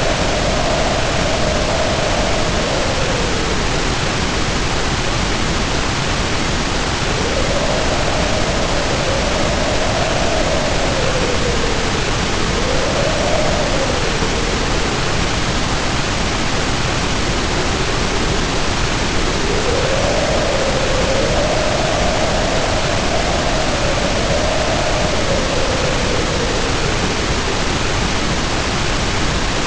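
Heavy rain pouring in a steady hiss, with wind howling over it in long rising and falling gusts, each several seconds long, with lulls between.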